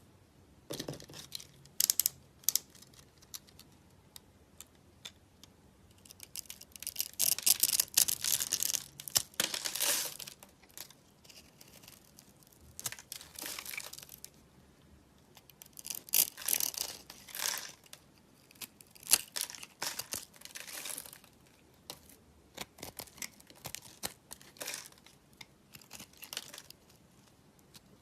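Dry soap crackling and crunching as it is cut and crushed, in crisp bursts of a second or a few seconds with short pauses between, the longest and loudest about a quarter of the way in.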